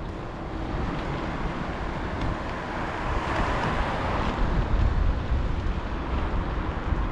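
Street noise on a bicycle ride: wind rumbling on the microphone, with a vehicle swelling past about three to four seconds in, and the wind rumble growing louder after it.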